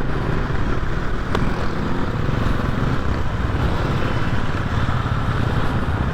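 Motorcycle engine running steadily on the move, under a steady rushing noise.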